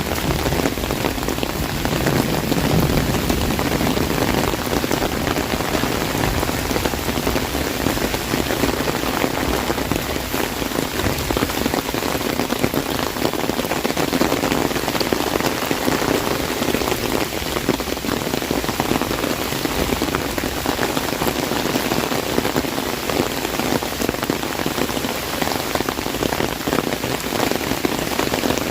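Heavy rain falling on an umbrella: a dense, steady patter of drops hitting the canopy close overhead.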